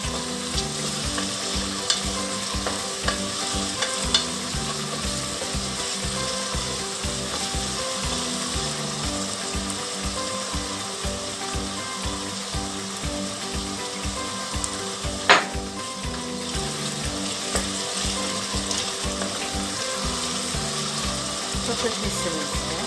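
Chopped onion, green onion and carrot sizzling steadily as they sauté in olive oil in a stainless steel pot, stirred now and then with a wooden spoon. There is a single sharp knock about two-thirds of the way through.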